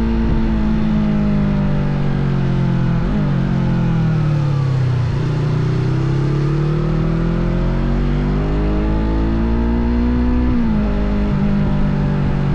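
Small Yamaha parallel-twin sport bike engine under way. The engine note falls as it slows, then climbs steadily as it accelerates, and drops sharply at a gear change near the end.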